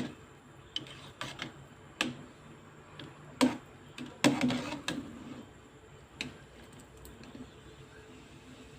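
Irregular clacks and knocks of a kitchen utensil against cookware while blanched vegetables are handled, about half a dozen sharp strikes, the loudest about three and a half and four and a half seconds in.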